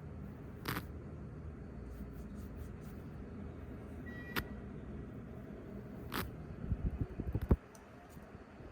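Fingertips tapping on a camera lens close to the microphone: a few scattered single clicks, then a quick run of taps near the end, the last one the loudest, over a steady low hiss.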